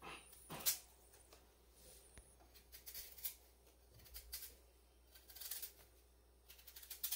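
Faint, scattered scrapes and clicks of a kitchen knife cutting into a sweet potato.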